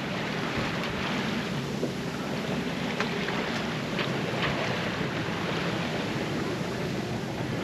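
Water rushing and splashing along a sailboat's hull under sail, with a few faint splashes, and wind on the microphone.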